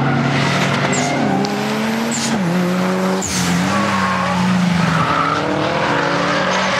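Tuned Mitsubishi Lancer Evo IX's turbocharged four-cylinder running at high revs while drifting, its pitch dropping in steps a couple of times, with tyres squealing.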